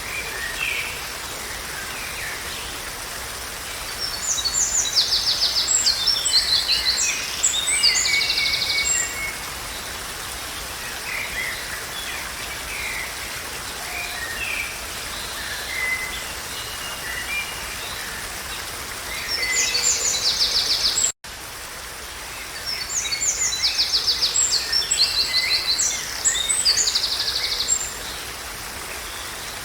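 Songbirds singing over a steady rush of running water. Two long bouts of rapid, high trilling phrases are separated by scattered single calls. The sound cuts out for a split second about two-thirds of the way through.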